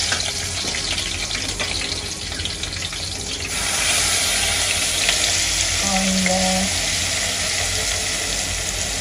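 Hot oil sizzling in a kadai. Chopped onion is tipped in about three and a half seconds in, and the sizzling grows louder and brighter as it fries.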